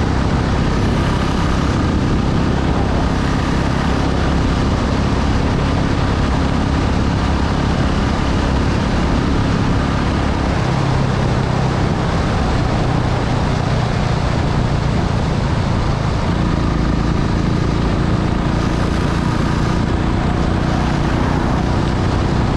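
Motorcycle engine running steadily on the move, its pitch shifting a little now and then, under heavy wind noise on the microphone.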